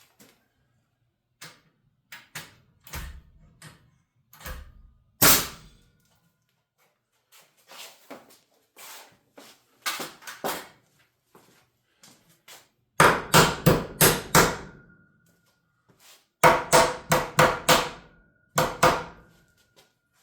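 Hammering on wooden wall framing: scattered lighter taps and a single hard blow, then two quick runs of about six blows each and one more near the end, with a faint ring lingering after the heavier runs.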